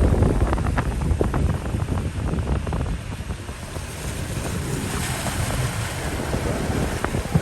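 Heavy rainstorm: a steady wash of water noise with wind buffeting the microphone, and a few sharp ticks in the first second or so.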